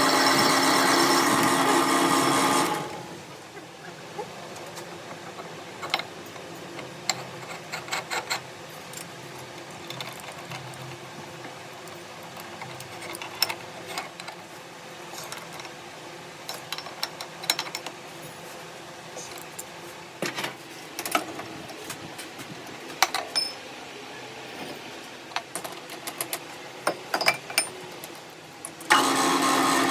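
A workshop machine runs with a steady, even hum for the first few seconds, then cuts out. After that come scattered light clicks and taps over a low background, and the machine starts running again about a second before the end.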